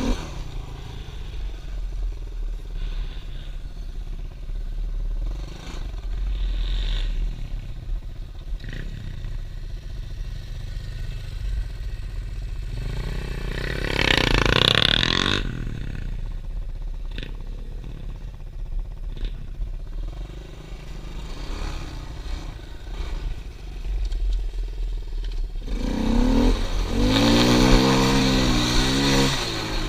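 Small pit bike engine running while riding over rough ground, with a steady low rumble throughout. It rises sharply about halfway through, and near the end it revs up and down hard, the loudest part.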